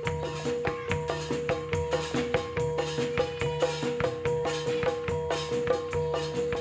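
Gedruk dance accompaniment: a gamelan-style ensemble of struck metal pitched instruments and drums playing a fast, repeating pattern over a held tone, with jingles.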